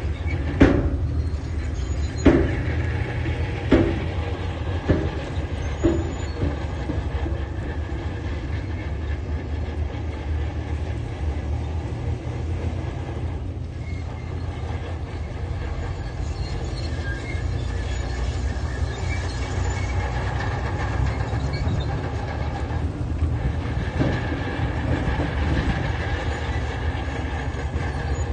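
Diesel engine of a tracked construction machine running steadily under load, with metal clanks from its tracks or working gear. Five sharp clanks come in the first six seconds, then a steady rumble.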